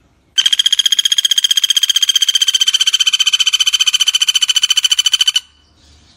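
Pelatuk bawang woodpecker giving its rattling call: one fast, even trill of sharp, high-pitched notes that starts about half a second in, runs for about five seconds and stops abruptly.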